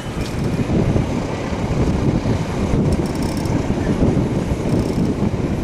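Train running on the rails: a loud, steady low rumble, with a short burst of clicking clatter about three seconds in.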